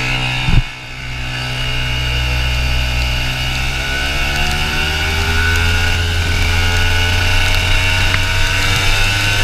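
Go-kart engine running, its revs climbing slowly and steadily over several seconds, after a short thump about half a second in.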